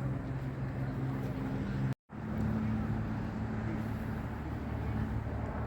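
Outdoor street noise: a steady, low, engine-like hum over a bed of traffic noise, broken by a brief dropout about two seconds in.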